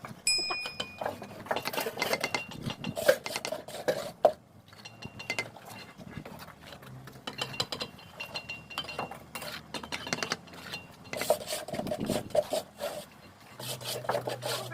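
Bricklaying work: a steel trowel scraping mortar and knocking against bricks, giving irregular sharp clinks and scrapes with a few short metallic rings.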